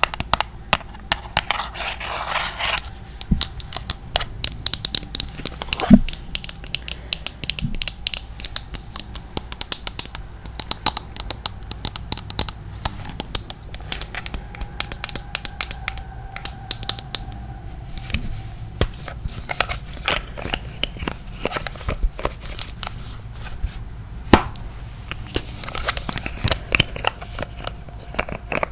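Tapping and scratching on makeup products for ASMR: a dense run of light clicks and scrapes, with a few sharper knocks, one about six seconds in and another later on.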